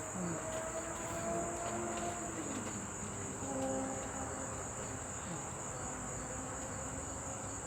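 A pause in a speech filled with a steady, unbroken high-pitched whine, with faint voices murmuring in the background.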